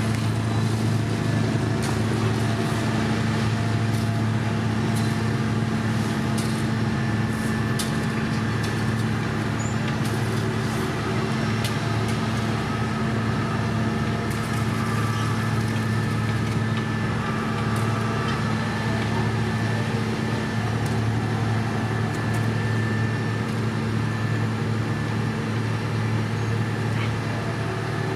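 Heavy diesel machinery on an asphalt paving job, running steadily at one engine speed with a constant low hum, and a few faint clicks and knocks over it.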